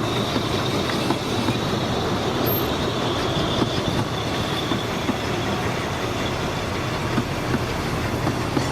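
Narrow-gauge train running on the rails: steady rolling noise with scattered clicks from the wheels, and a faint high wheel squeal that comes and goes.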